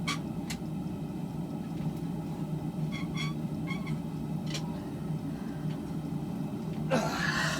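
Propane forge burner running with a steady low roar. A few light clicks and taps sound over it, and a brief rush of noise comes near the end.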